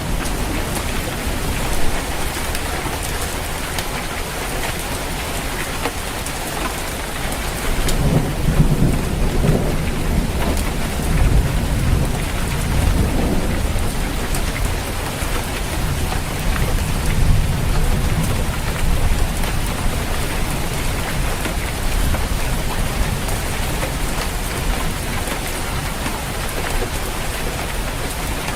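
Steady heavy rain drumming on a roof, with thunder rumbling low through the middle of the stretch and again a little later.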